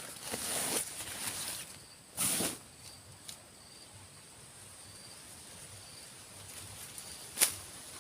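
Steady high insect drone, with short bursts of rustling and handling noise, the loudest about two seconds in and near the end, and a single click.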